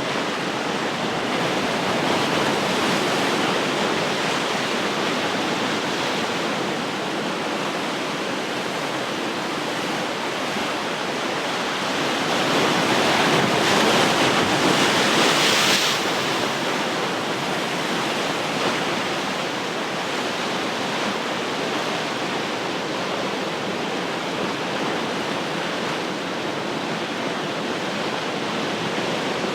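Ocean surf washing steadily, with one wave swelling to a louder, brighter crash about halfway through before easing back.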